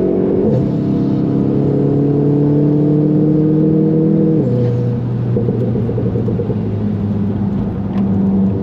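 In-cabin sound of a VW Golf 7 GTI's 2.0-litre turbo four-cylinder pulling hard, with an upshift about half a second in and the engine note then climbing steadily. About four seconds in it drops to a lower, choppier note as the driver lifts off and slows for a bend.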